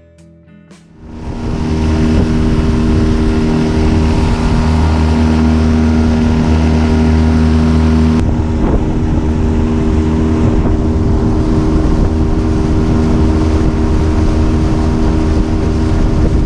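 Honda 8 hp four-stroke outboard motor running steadily at cruising throttle, pushing a small aluminium boat across the water. It comes in about a second in, and its tone shifts slightly about halfway through.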